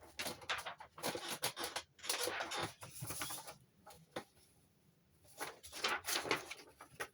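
Paper rustling and scratching in irregular bursts with small clicks, pausing for about a second around four to five seconds in.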